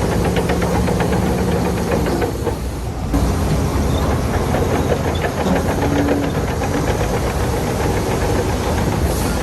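Shantui crawler bulldozer's diesel engine running under load, with a rapid, continuous clatter of its steel tracks. The sound eases briefly a little past two seconds in, then picks up again.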